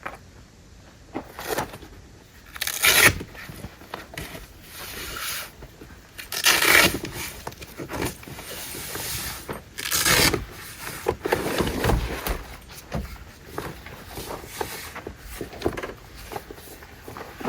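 Irregular scrapes and rustles with small clinks, in uneven bursts; the loudest come about 3, 7 and 10 seconds in.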